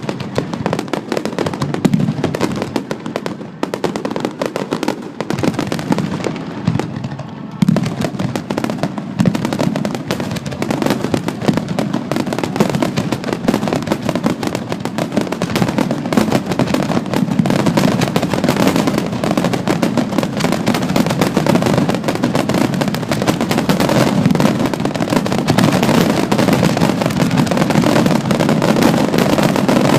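Fireworks finale: a dense barrage of shell bursts and crackling. A sharp loud burst comes about eight seconds in, after which the explosions run together into a continuous, thicker barrage.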